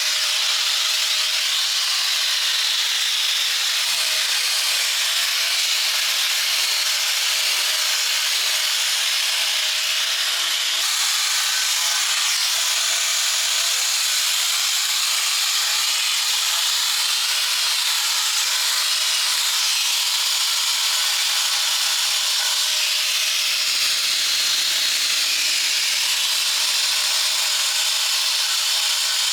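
Steady, unbroken hiss from a workshop tool running continuously, such as a sander or an air tool.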